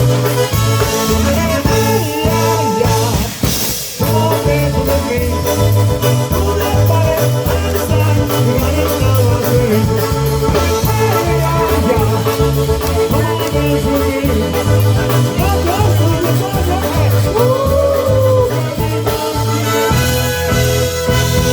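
Live polka band playing, with a bass line bouncing in a steady two-beat pattern under the melody and a brief break in the music about four seconds in.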